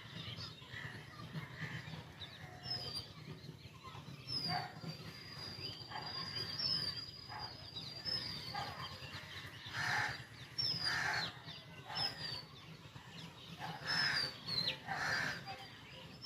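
Birds calling: short, high chirps that slide downward, repeated throughout, with a steady high thin tone held for about three seconds near the start. Louder, harsher calls come in pairs about ten and fourteen seconds in.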